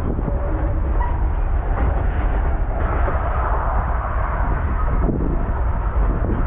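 Baldwin-Westinghouse electric steeplecab locomotive running with its freight cars: a steady low rumble with a swell of louder running noise about three seconds in.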